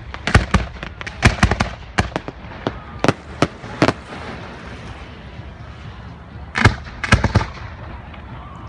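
Aerial fireworks shells bursting in quick succession: a rapid run of sharp bangs over the first few seconds, a brief lull, then another cluster of loud bangs about three quarters of the way through.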